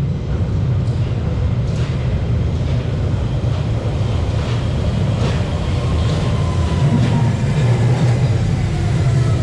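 A London Underground Central Line train (1992 Stock) rumbling through the station tunnel, its wheels clicking regularly over rail joints. From about halfway through, a whine falls in pitch as the train slows.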